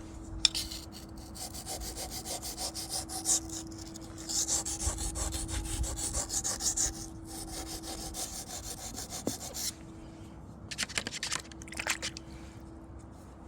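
Knife blade scraped back and forth over a wet Wästikivi sharpening stone in quick repeated strokes. The strokes stop about ten seconds in, and a few more scrapes follow a second or two later. A faint steady hum sits underneath.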